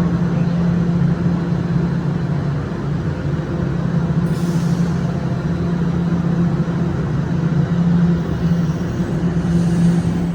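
Toronto Rocket subway train on TTC Line 1 running, a loud steady hum with a low droning tone. There is a brief hiss about four seconds in.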